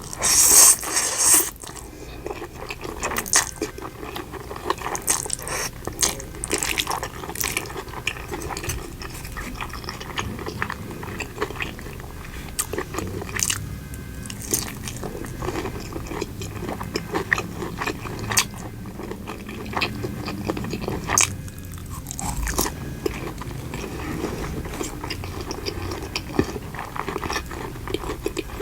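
Close-miked eating for ASMR: a loud crunchy bite in the first second or two, then steady chewing with many small crackles and clicks.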